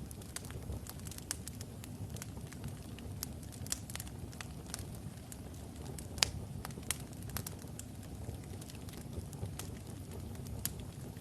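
Wood fire of burning logs crackling: a steady low rumble of flame with frequent sharp pops and snaps, the loudest about six seconds in.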